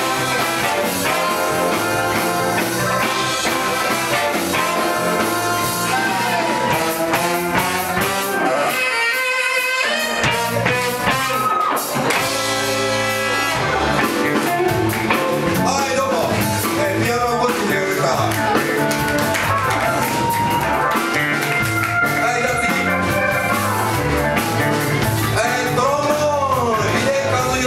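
Live band music with guitar, drums and singing in a blues-rock style; the bass drops out briefly about nine seconds in.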